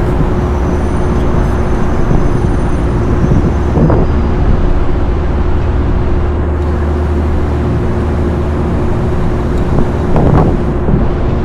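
Steady mechanical drone: a constant hum over low rumble and noise, swelling briefly twice.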